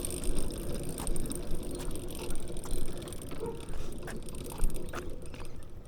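Minibike's small gas engine idling unevenly from a cold start, with scattered mechanical clicks.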